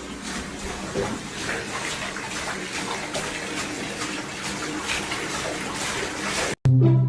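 Running water: a steady rushing noise that cuts off abruptly near the end.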